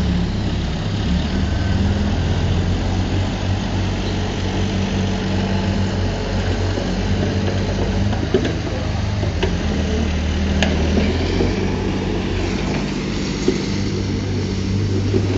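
Diesel engine of heavy earthmoving machinery running steadily under a constant low drone, with a few short sharp knocks in the middle.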